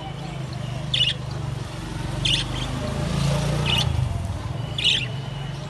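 Pet parrots, such as conures or lorikeets, giving four short, sharp squawks about a second and a bit apart, over a steady low hum.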